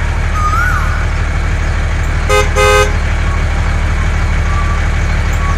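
Vehicle engine running steadily with a fast low chug, and a horn toots twice in quick succession about two and a half seconds in.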